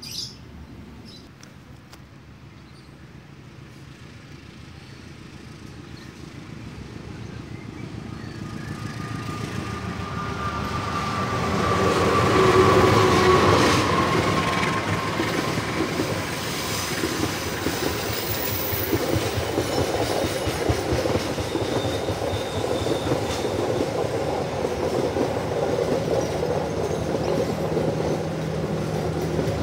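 Passenger train led by a CC 201 diesel-electric locomotive approaching and passing close by, growing louder to a peak about twelve seconds in, with a whine that falls slowly in pitch as the locomotive goes past. Then the coaches roll by with a steady noise of wheels on the rail.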